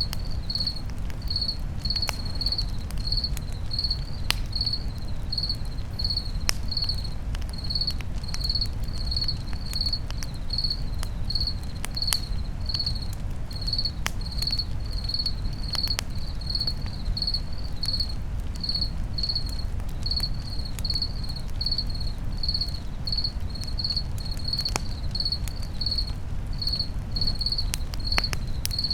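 A cricket chirping steadily, about two chirps a second, over a campfire with a low rumble and scattered sharp crackling pops.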